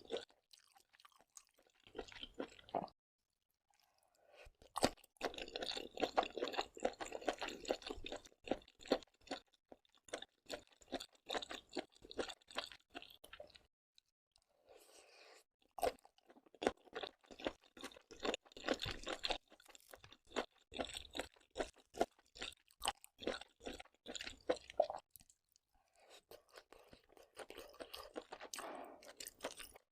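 Close-miked chewing of seafood with crunchy clicks, in runs of several seconds broken by short pauses about three, fourteen and twenty-five seconds in.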